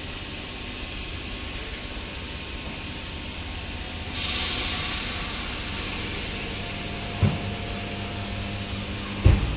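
ScotRail electric multiple unit standing at the platform with a steady low hum. About four seconds in, a sudden loud hiss of released air fades over a couple of seconds. Two short dull thumps follow near the end.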